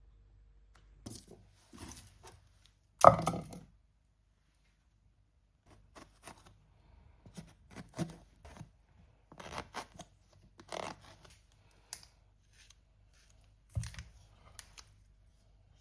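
Kitchen preparation sounds: irregular light knocks, taps and rustles of things being handled, with a heavy knock about three seconds in and another near the end.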